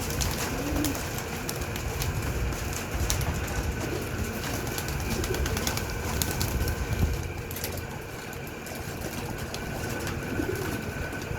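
Homing pigeons cooing now and then, a few short low coos over a steady low background rumble.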